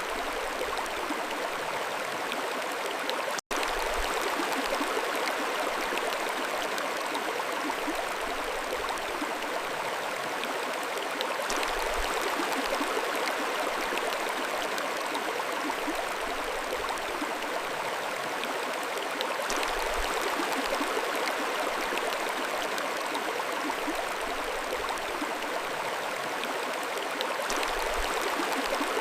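Mountain stream flowing steadily over stones, an even rushing and gurgling of water. The sound drops out for a split second about three and a half seconds in.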